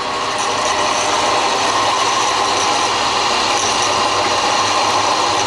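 Electric power tool running steadily at speed with a high whine, no change in load.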